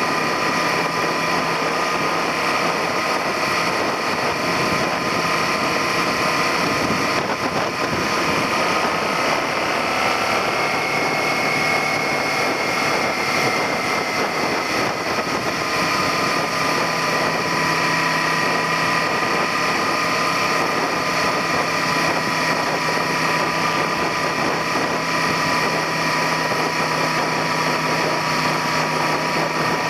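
Suzuki SV400's V-twin engine running steadily while the motorcycle is ridden, heard from a handlebar-mounted camera along with a constant rush of road and wind noise. The engine note rises a little about a third of the way in, then settles back.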